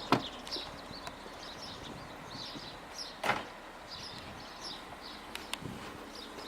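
Two solid thuds about three seconds apart, with a few light clicks later, as parts of a car are handled and shut, over birds chirping in the background.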